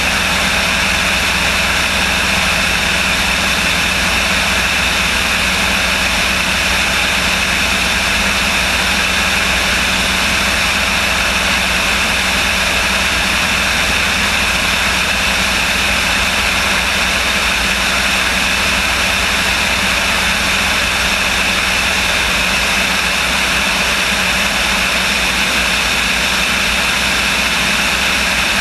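Light propeller aircraft's engine running as a steady drone, unchanging in level and pitch throughout.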